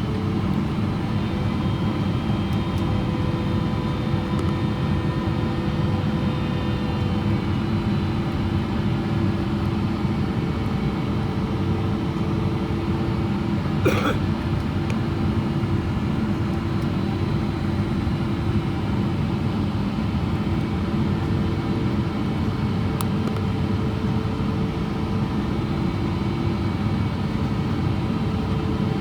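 Steady cabin noise of a Boeing 777-300ER on approach, heard from inside the cabin: the GE90 engines and airflow make a constant drone with several steady humming tones. A single brief click about halfway through.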